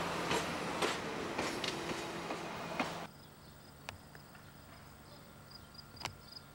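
Budd Rail Diesel Car running along the track: a steady rushing rumble with the wheels clicking over rail joints. The sound cuts off suddenly about three seconds in to a much quieter stretch with faint repeated high chirps and a couple of sharp clicks.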